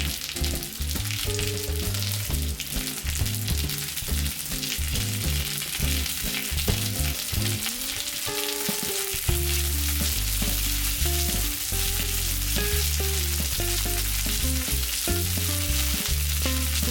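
Shrimp pancakes frying in oil in a pan: a steady, dense sizzle, with background music and its bass line underneath.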